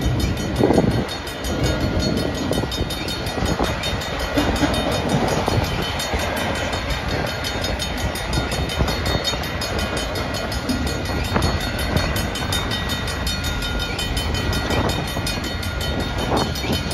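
Freight train of enclosed autorack cars rolling past: a steady rumble of steel wheels on the rails, with a few knocks along the way.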